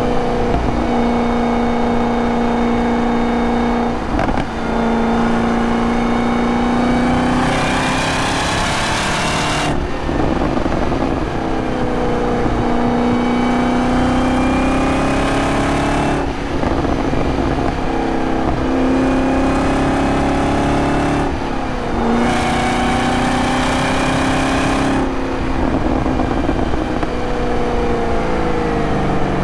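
A 2023 Camaro ZL1's supercharged 6.2-litre V8 running under load, its pitch rising and falling. The note drops briefly several times between pulls, and a hiss rises over the engine during two stretches of harder running.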